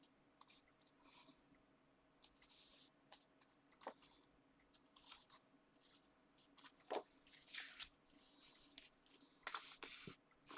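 Sheets of paper and card being handled and layered by hand: soft rustles and slides with a few light taps and clicks.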